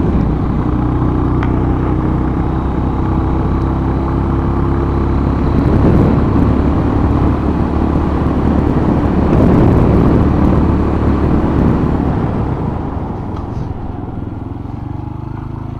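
Motorcycle engine running as the bike rides along, with a dense rush of wind and road noise. Over the last few seconds the engine note drops in pitch and the sound eases off as the bike slows.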